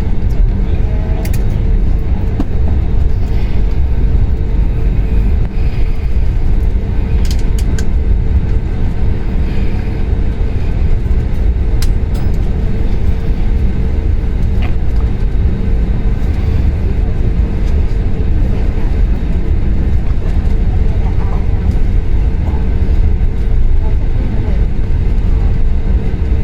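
Steady low rumble of a jet airliner's cabin, with a constant hum and a few faint clicks over it.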